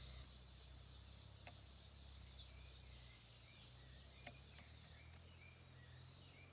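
Faint birdsong: scattered short chirps and brief whistles from several birds, over a low steady hum.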